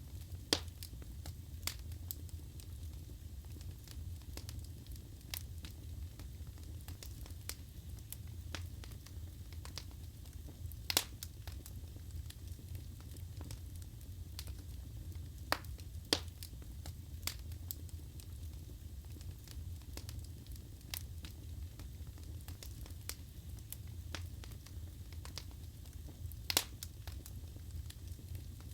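Wood fire burning in a fireplace: a steady low rumble with irregular sharp crackles and pops of burning logs, a few louder snaps scattered through.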